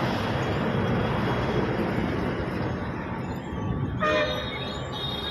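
Steady road and engine noise from a moving vehicle, with a vehicle horn sounding briefly about four seconds in and a second, higher-pitched horn starting near the end.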